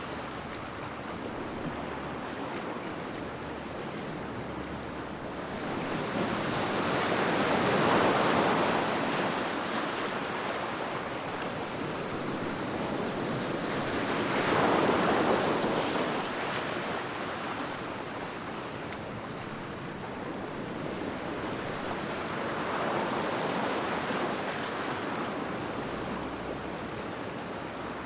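Sea waves breaking and washing on the shore: a steady surf wash with three larger waves swelling and receding, loudest about 8 and 15 seconds in and again near 23 seconds.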